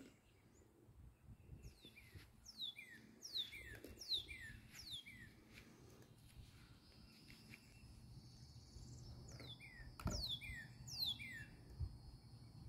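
A songbird singing runs of quick down-slurred whistled notes, each a high note falling into a lower one, in two bouts, the second starting about nine and a half seconds in. A low rumble runs underneath, with one sharp thump just after ten seconds.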